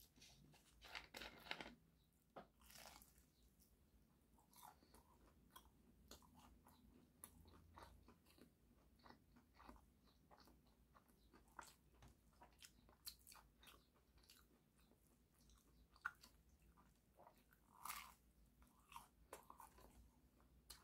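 Quiet, close-up eating sounds: crunchy bites and chewing of a toasted, cheese-filled sandwich melt and fries, with many irregular small mouth clicks.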